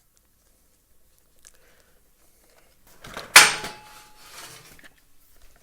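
A single sharp clack of hard parts being knocked or snapped together during reassembly, about three and a half seconds in, dying away over about a second, with faint handling noises after.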